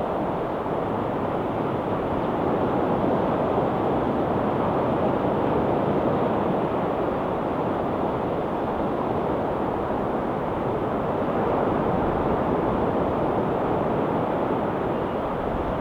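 Sea surf washing steadily over the shore, a constant rushing that swells and eases gently every few seconds.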